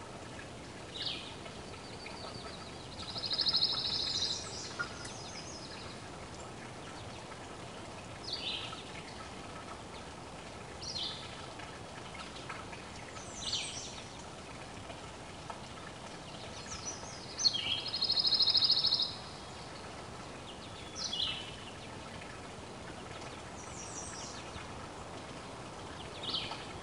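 Songbirds calling: short, high, down-slurred notes every couple of seconds, with two longer fast trills, one early on and one about two-thirds of the way through, over a steady faint outdoor hiss.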